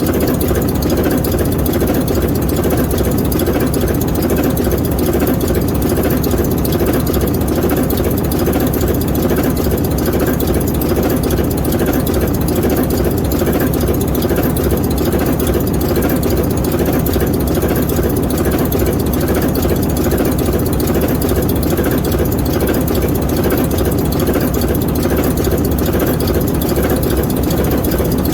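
ALCO 539T turbocharged inline-six diesel prime mover of an S4 locomotive running steadily, a loud, even stream of firing pulses with no change in speed.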